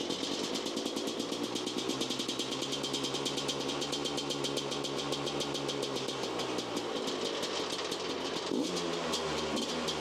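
Dirtbike engine running steadily just after starting, with a fast, even firing beat and its speed shifting slightly near the end. It runs well again now that its spark plug, which had no spark, has been cleaned and re-gapped and its contact points sanded.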